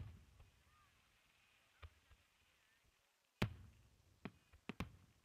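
Fireworks shells bursting: a sharp bang at the start and a louder one about three and a half seconds in, each trailing off in a low rumble. A few quicker, smaller pops come near the end.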